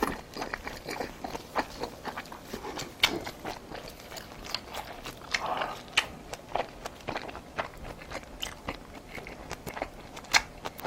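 Close-miked chewing and biting of spicy braised monkfish: irregular wet clicks and soft crunches from the mouth, several a second.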